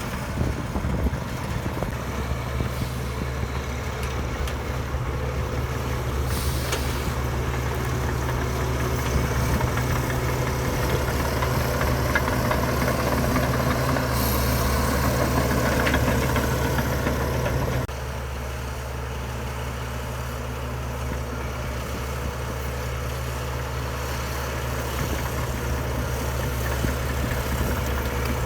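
Heavy diesel engine of earthmoving machinery running steadily under load. It grows louder over the first sixteen seconds, then drops off suddenly about eighteen seconds in and settles to a lower, steady run.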